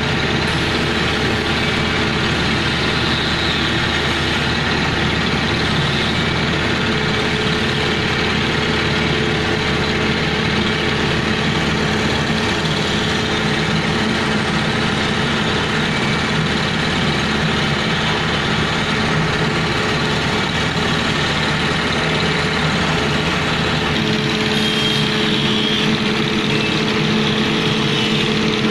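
A heavy engine running steadily, its tone changing about three-quarters of the way through.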